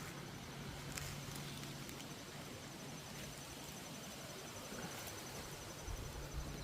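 Faint outdoor background: a steady low hum and a high, fast-pulsing insect call, with a couple of light clicks.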